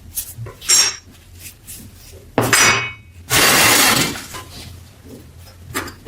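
Small metal parts clinking and ringing as they are handled and set down, with two sharp clinks and a short burst of hissing noise a little after the middle.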